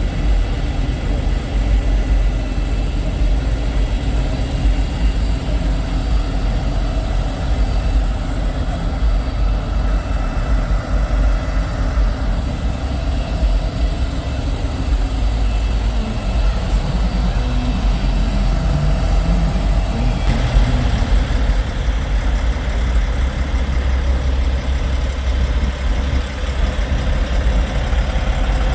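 Semi trucks' diesel engines idling with a steady low rumble.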